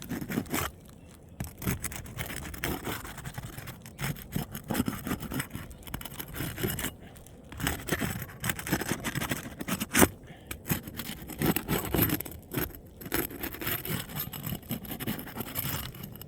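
Roof snake and roofer's hatchet scraping and prying under asphalt shingles to get at the nails holding a damaged shingle: irregular scrapes and rubs with small knocks, and one sharp knock about ten seconds in.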